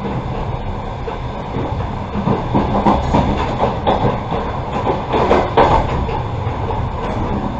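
Passenger train running, heard from inside a carriage: a steady low rumble, with the wheels clacking over rail joints in a run of sharper clacks in the middle.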